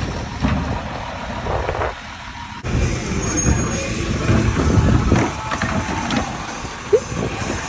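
A garbage truck running, with mechanical clatter and noise; the sound drops and comes back abruptly about two and a half seconds in.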